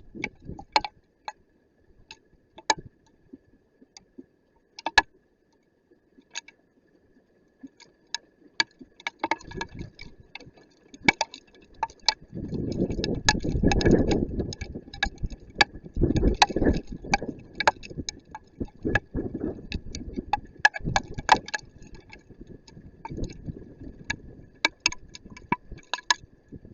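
Hailstones striking hard surfaces in sharp, irregular clicks, sparse for the first several seconds and thickening into a dense patter from about nine seconds in. A low rumbling noise rises under the clicks about twelve seconds in and fades out a few seconds before the end.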